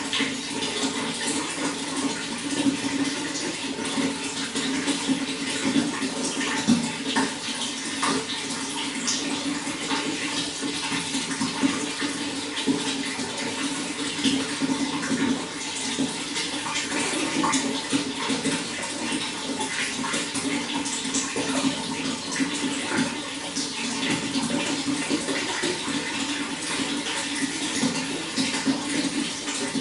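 Running water flowing and splashing steadily, with small irregular splashes throughout.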